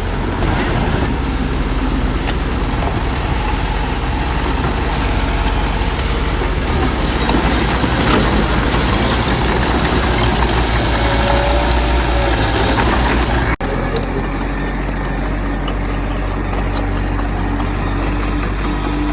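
Heavy diesel engines of earthmoving machinery running steadily with a low rumble. The sound changes abruptly at a cut about two-thirds of the way through, and the engine sound carries on after it.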